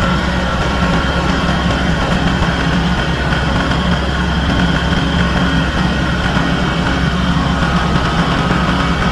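An engine running steadily at an even speed, with a low hum and no changes in pitch.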